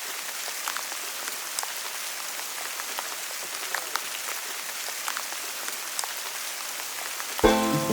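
Steady rainfall with many scattered drop ticks. Music with pitched notes comes in near the end.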